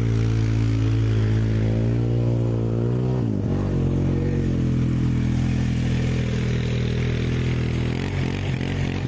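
Off-road truck engine running steadily under load during a mud recovery pull. Its pitch sags and recovers about three seconds in, then holds, with a rushing hiss building over it.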